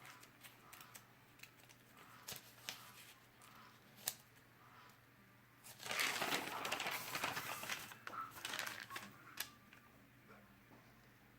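Paper ad pages rustling and crinkling as they are handled and turned, loudest for about two seconds midway, with scattered small clicks and taps.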